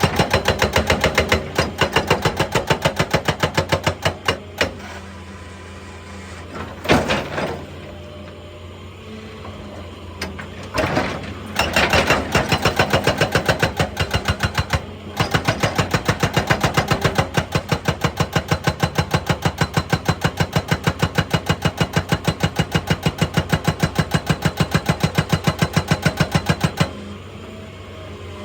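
Excavator-mounted hydraulic breaker hammering rock in long runs of rapid, evenly spaced blows, stopping and restarting a few times, over the excavator's steady engine.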